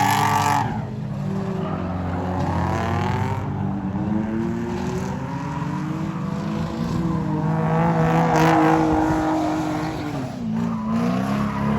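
Car engines running and revving, their pitch rising and falling, with a dip about ten seconds in before climbing again.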